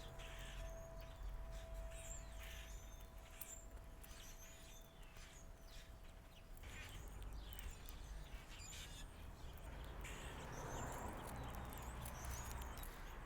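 Small backyard birds chirping and calling in short, scattered notes over a low, steady background rumble. A faint steady hum underneath stops about halfway through.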